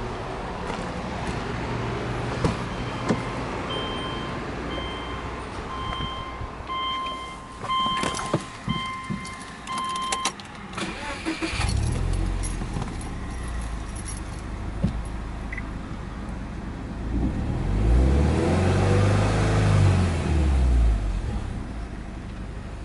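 Keys jangling and door-handling clicks while a car's warning chime beeps repeatedly, then the Subaru Legacy 2.0GT spec B's EJ20 turbocharged flat-four starts about twelve seconds in and idles. It is revved once, rising and falling, a few seconds later before settling back to idle.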